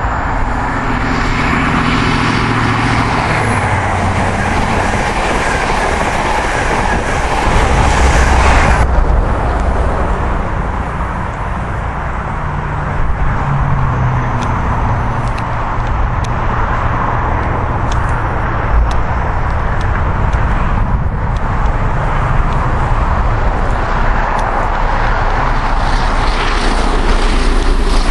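A diesel High Speed Train passes at speed, its engine drone and the rush of the train dropping away suddenly about nine seconds in. Then steam locomotive 60163 Tornado, a Peppercorn A1 Pacific, approaches working hard with its train, growing louder towards the end.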